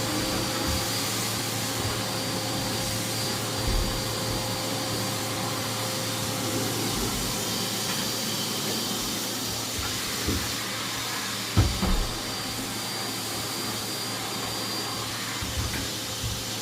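Henry vacuum cleaner running steadily, with a couple of short knocks a little before twelve seconds in.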